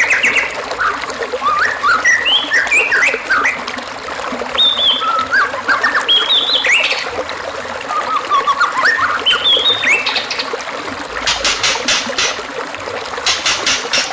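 White-rumped shama (murai batu) singing a varied run of short whistled phrases that jump up and down in pitch, then breaking into bursts of fast, dry rattling notes in the second half. A steady trickle of running water lies underneath.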